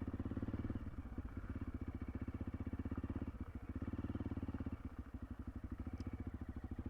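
Honda CRF300L's single-cylinder four-stroke engine idling, a rapid, even putter with no revving.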